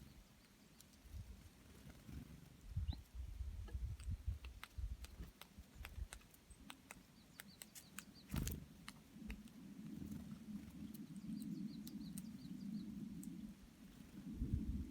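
Birds at feeding: faint, short, high chirps a few times over scattered clicks and a low rustling, with a sharp knock about eight seconds in.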